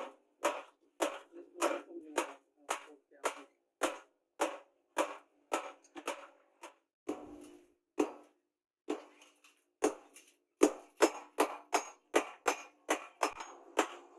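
A hammer striking steel over and over, about two blows a second with a short ringing after each, pausing briefly near the middle and then resuming faster: the chainsaw-bar steel being hammered into a sickle.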